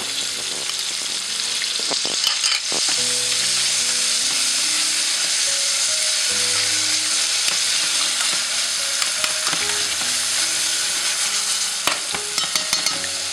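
Tomatoes and lemongrass sizzling in hot oil in a stainless steel pot, stirred with a utensil, with a steady frying hiss. A few sharp clicks of the utensil against the pot come about two seconds in and again near the end.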